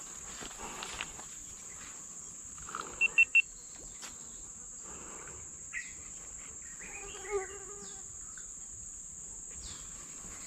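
Steady high-pitched drone of insects, with three short, sharp high chirps about three seconds in and a brief call near seven seconds.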